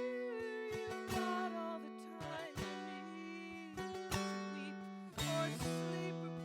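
Acoustic plucked-string instrument playing an instrumental passage of a song, picked notes ringing over a low held note.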